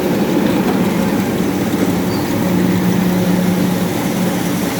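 MTZ (Belarus) tractor's diesel engine running steadily, a constant engine hum with no change in speed.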